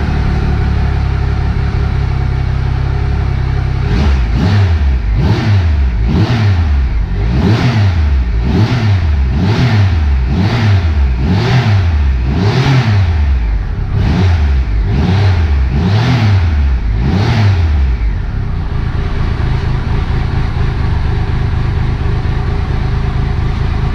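Triumph Trophy SE's 1200 cc three-cylinder motorcycle engine on its stock exhaust, idling, then blipped through about a dozen quick revs roughly one a second, then settling back to idle.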